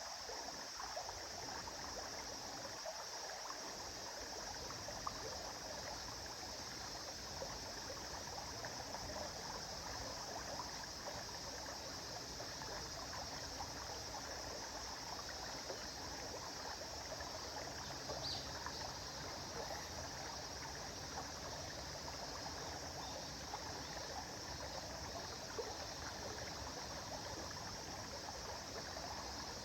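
A stream or small river flowing steadily over stones, an even rushing with fine trickling and splashing detail.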